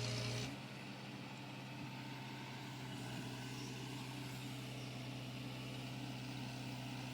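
Diesel engine of a telescopic handler running steadily during a lift, a louder, hissier stretch easing off about half a second in.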